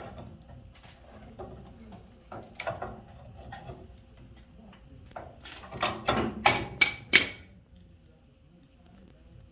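Knocks and clicks of tools and parts being handled during a water heater installation, with a quick run of five or six louder, sharp clanks about six to seven seconds in.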